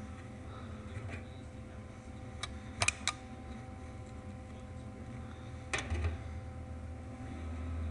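Welding machine humming steadily with its cooling fan running, with a few sharp clicks of metal being handled: one about two and a half seconds in, two in quick succession just after, and another about six seconds in. No welding arc is running.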